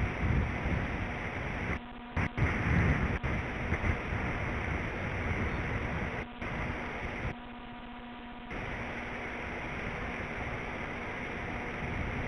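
Wind buffeting an outdoor nest-cam microphone, a rough rushing with gusts, over a faint steady electrical hum. The sound thins out briefly about two seconds in and again for about a second past the middle.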